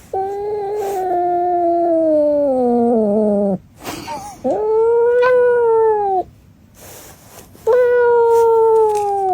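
A cat yowling: three long drawn-out meows. The first lasts about three and a half seconds and slides slowly down in pitch. The other two are shorter and steadier, the last running on past the end.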